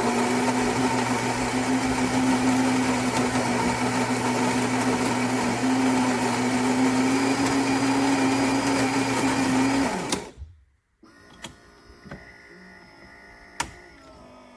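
Built-in ceramic burr grinder of a Philips 4300 Series fully automatic espresso machine grinding beans for an espresso: a loud, steady whirr with a constant hum. It stops abruptly about ten seconds in, leaving a few quiet clicks and a faint hum.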